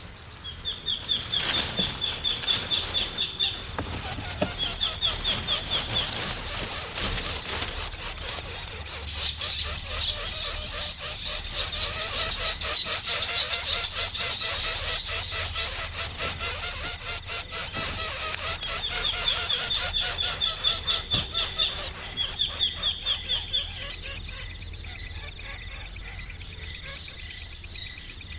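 A fast, pulsing high-pitched trill, like a cricket's, goes on without a break, with short runs of rapid bird chirps coming in several times.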